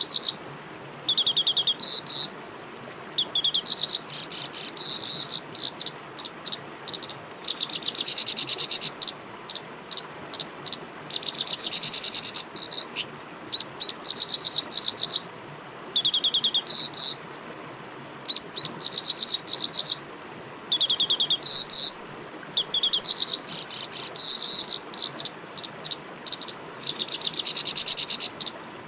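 Songbirds singing continuously in rapid trills and fast repeated chirps, over a steady rush of flowing water and a constant high-pitched insect drone.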